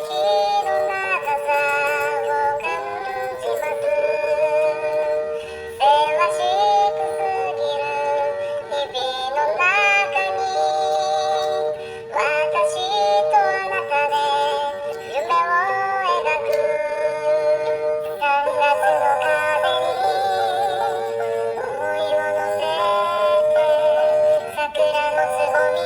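Music: a melody sung by cat meows edited and pitch-shifted into notes, over a steady sustained accompaniment.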